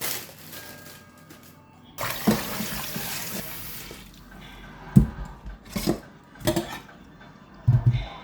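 Kitchen tap running for about two seconds, then several short knocks and clunks of kitchenware.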